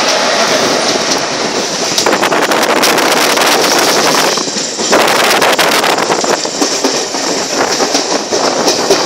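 Moving train heard from on board through an open window: a steady rush of wheels on rail and wind, with a few seconds of rapid clicking and clattering in the middle as the wheels run over points and rail joints.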